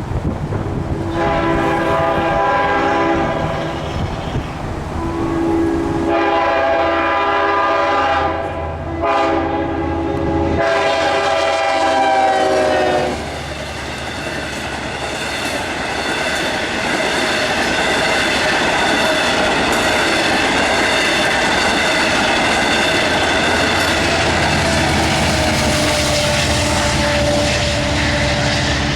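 Long Island Rail Road train horn sounding four blasts at a grade crossing, the last dropping in pitch as the train passes. The train then rolls through the crossing with a steady rumble and clatter of wheels on the rails.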